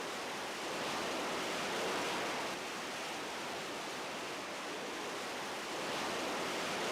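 A steady rushing noise, even and hiss-like, with no distinct tones or impacts.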